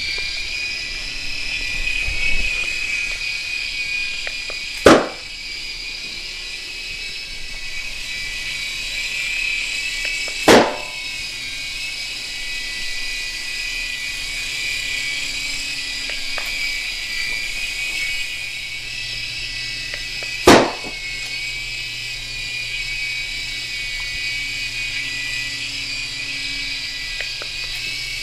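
Airhogs Sharpshooter toy coaxial helicopter's small electric rotor motors whining steadily, rising in pitch as they spin up right at the start. Three loud, sharp pops several seconds apart stand out over the whine: balloons popping as its missiles hit them.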